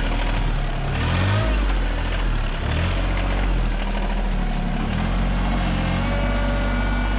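Compact tractor engine running steadily, its pitch dipping and rising again between about one and three seconds in.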